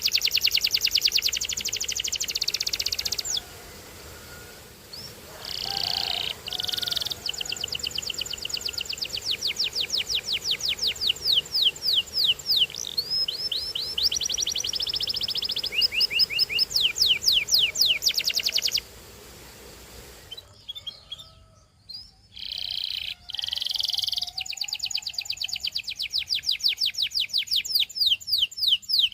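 Canary singing long runs of fast repeated notes, high-pitched trills that switch to a new pattern every few seconds, with two short breaks about 4 seconds in and about 20 seconds in.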